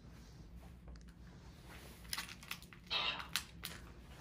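A quick run of light clicks and taps in the second half, over a low steady hum.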